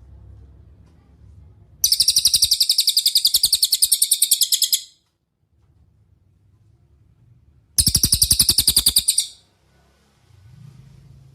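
Cililin song bird giving two fast, high trills of rapidly repeated notes, the first about three seconds long and the second about a second and a half, with a faint low rumble of background noise between them.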